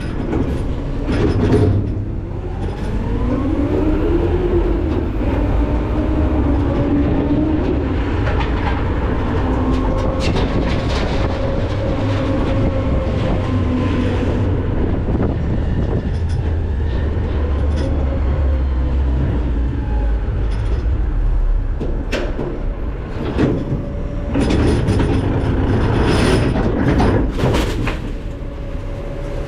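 McNeilus ZR rear-load garbage truck's packer running: the engine and hydraulics give a steady rumble with a whine that glides up and down, while the packer blade crushes trash in the hopper with cracks and bangs, most of them near the end.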